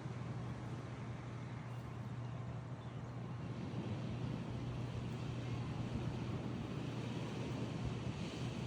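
Steady seaside ambience: surf and wind as an even wash of noise, with a constant low rumble underneath.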